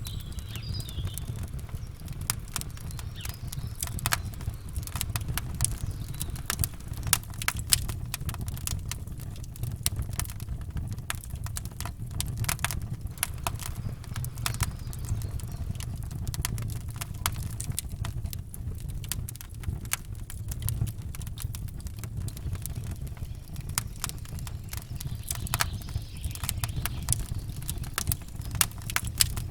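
Campfire burning, with many sharp crackles and pops at irregular intervals over a steady low rumble.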